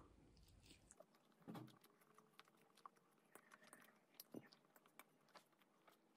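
Very faint, scattered chewing and small mouth clicks while eating a soft pork siomai dumpling and then lomi noodles, with a slightly louder sound about a second and a half in and another just past four seconds.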